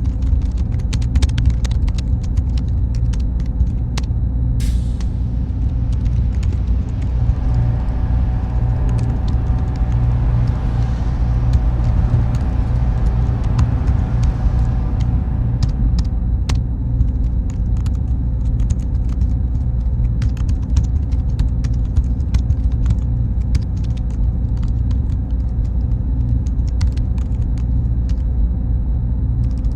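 Server room ambience: a steady, deep machine hum with a thin high whine above it and scattered light ticks. A brighter hiss swells up and fades away in the middle.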